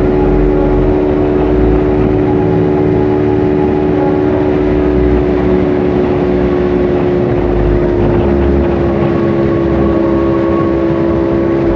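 Motorcycle engine running at a steady cruising speed, holding one even pitch, with wind rumble underneath.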